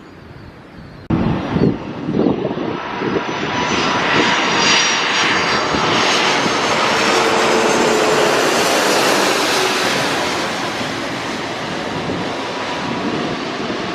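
Airliner's engines passing close by: a broad rushing roar with a steady high whine that swells to its loudest around the middle and eases slightly near the end. The sound jumps up suddenly about a second in.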